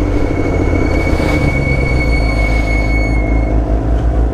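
Brakes squealing in a steady high tone for about three seconds while coming to a stop, over the low rumble of an idling motorcycle engine.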